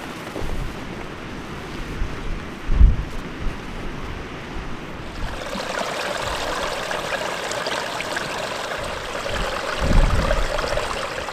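Running water of a stream, a steady rushing that grows fuller about halfway through, with gusts of wind buffeting the microphone, the strongest about 3 s in and near the end.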